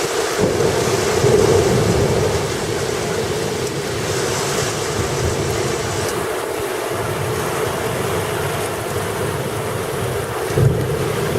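Heavy thunderstorm rain pouring down with gusting wind: a steady rush of noise, with the wind buffeting the microphone in low rumbles.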